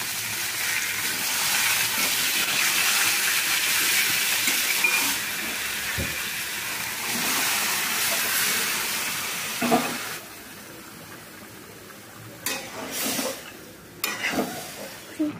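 Marinated chicken pieces sizzling in hot oil in a kadai, a loud, even hiss. About ten seconds in the sizzle stops abruptly, and a metal spatula scrapes and knocks against the pan a few times as the chicken is stirred.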